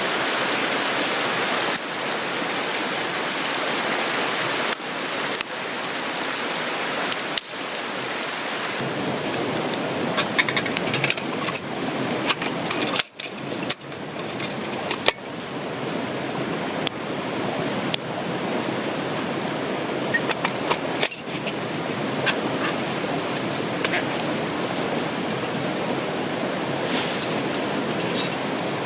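A river rushing steadily, with scattered sharp clicks and knocks over it.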